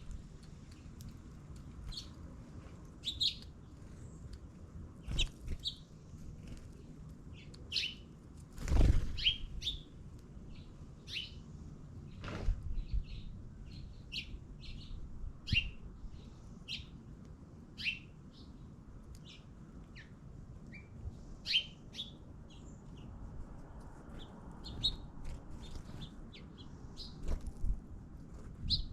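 Small birds chirping, many short high calls scattered irregularly, with a couple of louder low thumps about nine and twelve seconds in.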